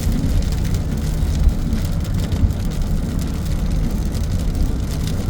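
Car driving in a hailstorm, heard from inside the cabin: a steady low road rumble under heavy rain on the car, with two sharp knocks, about one and a half and two and a half seconds in, of big hailstones hitting the windshield.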